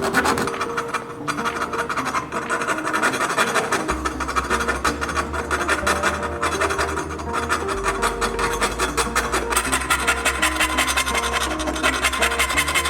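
Rapid, continuous rasping strokes of hand abrasive work (sanding or filing) on a 1:24 scale model car, heard over background music with a melody.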